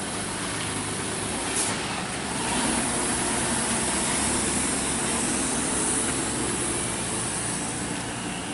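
Truck engine running steadily, getting louder about two and a half seconds in and easing off a little near the end.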